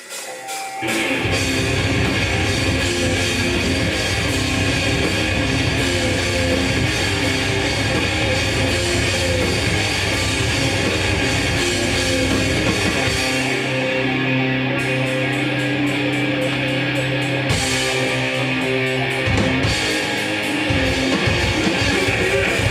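Hardcore punk band playing live: distorted electric guitars, bass and drum kit come in together about a second in and play on at full volume.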